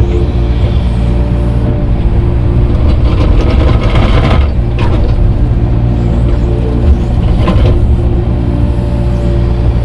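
Tractor engine running steadily under load while grading dirt, with a few brief rattles from the machine, around four seconds and again near seven and a half seconds in.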